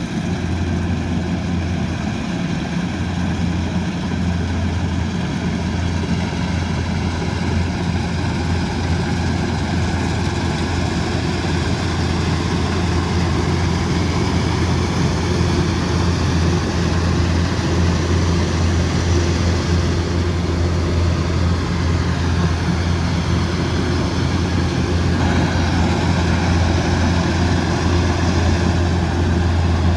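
Combine harvester's diesel engine running steadily under load with a deep, even hum, growing slightly louder toward the end.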